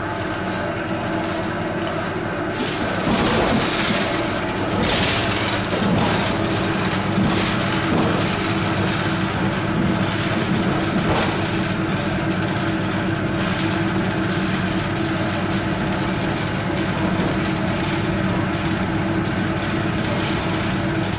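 Suburban electric train running, heard from inside the carriage: a steady motor hum under wheel and track noise, with occasional knocks over the rail joints. It gets louder about three seconds in.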